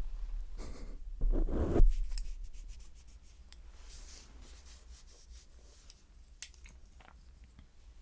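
Close-miked ASMR trigger sounds: rubbing and scratching right against the microphone, loud and bass-heavy for the first two seconds, then softer with scattered light clicks and taps.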